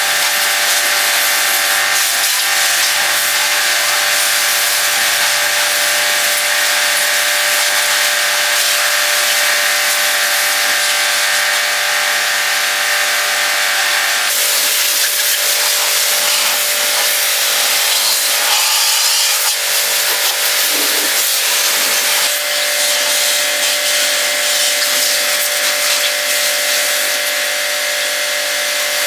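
Pressure washer running and spraying water onto a motorbike: a steady loud hiss over a motor hum, which changes about 14 seconds in and again about 22 seconds in.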